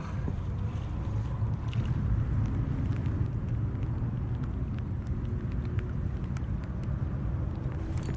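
Steady low wind rumble on the microphone, with scattered faint ticks.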